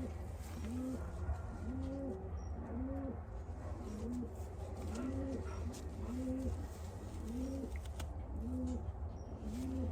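Racing pigeons cooing in the loft: a string of short, low, arching coos repeating roughly once a second, over a steady low hum.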